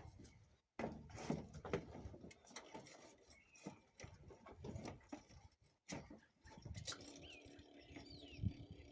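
Faint outdoor ambience: birds chirping among irregular low bumps, like wind or handling on the microphone. A faint steady hum starts about seven seconds in.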